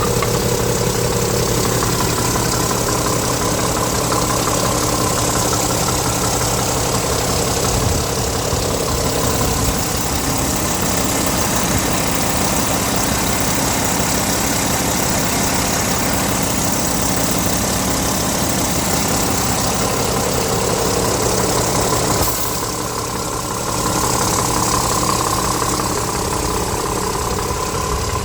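Scania R tractor unit's diesel engine idling steadily. The sound drops briefly about three-quarters of the way through, then resumes.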